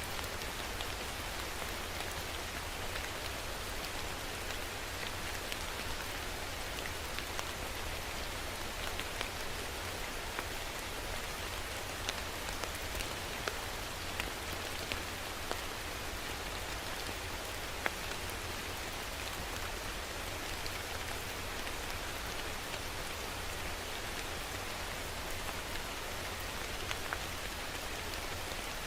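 Steady rain falling, with a constant hiss and individual drops ticking on a surface, a few louder drops standing out now and then.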